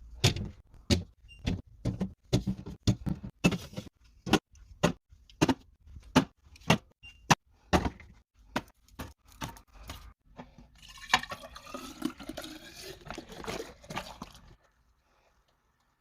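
Drink containers set down one after another, about two dozen sharp knocks and clinks. Then, about eleven seconds in, liquid is poured into a container for a few seconds, the pitch rising as it fills.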